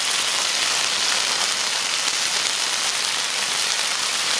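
Marinated pork and pineapple pieces sizzling steadily in hot frying pans, the pork on medium-high heat.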